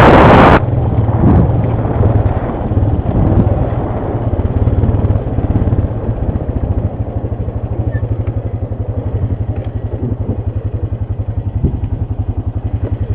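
ATV engine running, easing off and settling into a steady, even idle from about six seconds in. A loud rush of wind noise on the microphone cuts off in the first half-second.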